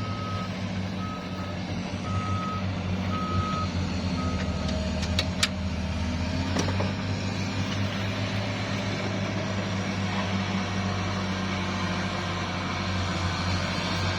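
A vehicle's reversing alarm beeping about once a second, stopping about four and a half seconds in, over the steady hum of a running engine. A couple of sharp clicks follow shortly after.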